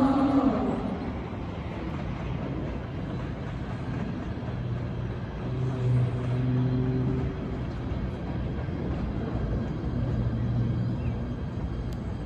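Rumble of a PATH subway train, with a pitched tone that fades out in the first second and a low hum that swells twice.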